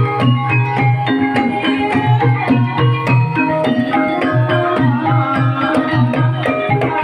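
Banyumasan gamelan music for an ebeg trance dance: struck pitched notes play a repeating melody over a hand-drum (kendang) pattern.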